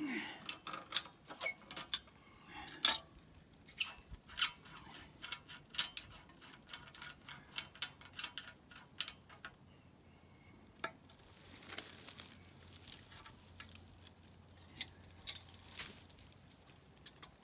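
Hand tools clinking and clicking against metal pump fittings in irregular taps and clanks, with one sharper clank about three seconds in.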